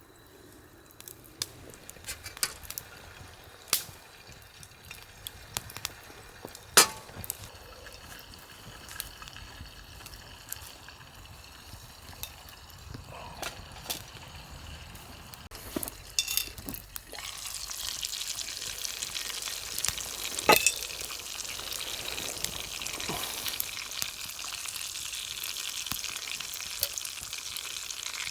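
Food sizzling as it fries in a pan over a campfire, with a few sharp clicks and knocks; the sizzling gets louder about seventeen seconds in.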